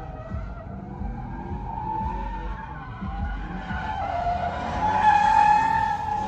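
Car tires squealing in a long, wavering screech while drifting, growing louder near the end.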